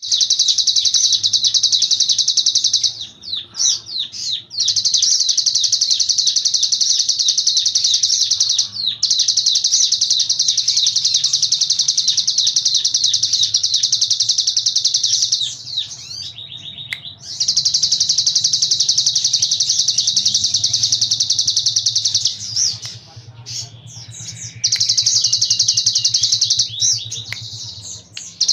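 Ciblek gunung, a mountain prinia, singing its buzzing 'brem' trill. Five long, high, unbroken trills of three to six seconds each are separated by short pauses that hold a few brief chirps.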